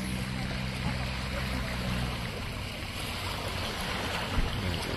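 Water lapping around a boat at anchor, a steady wash of noise, with a low steady hum that stops about two seconds in.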